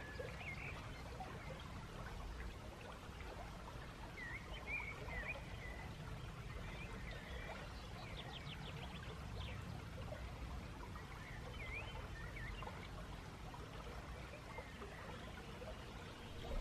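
Faint outdoor ambience: small birds chirping now and then over a steady low rushing noise.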